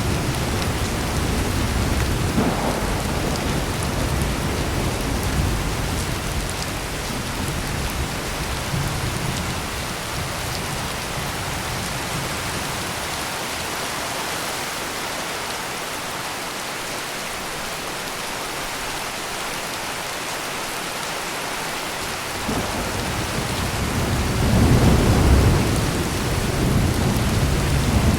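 Heavy rain pouring steadily, with low thunder rumbling through the first few seconds, easing off in the middle, then a louder roll of thunder building near the end.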